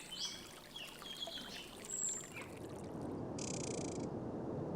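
Water trickling, with small birds chirping during the first half. A steady water rush then fills the rest, and a brief high chirring, like a cricket, comes about three and a half seconds in.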